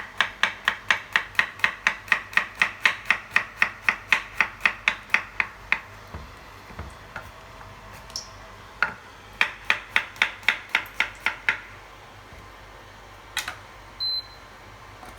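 Kitchen knife chopping garlic on a cutting board, quick even strokes about four a second. The strokes come in two runs with a pause between, and a couple of last strokes near the end.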